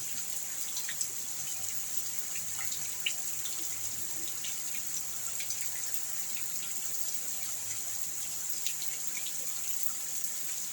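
Rain falling: a steady hiss with many scattered drips and patters.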